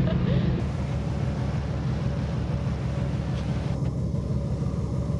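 Wind rumbling on the microphone, mixed with the steady noise of a large car ferry under way at sea.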